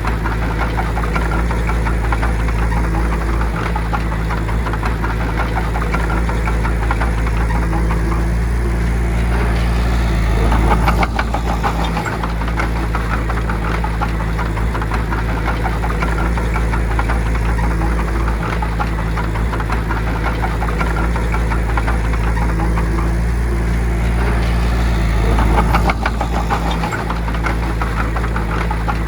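Bulldozer's diesel engine running steadily while working, with two brief surges in level, about eleven and twenty-six seconds in.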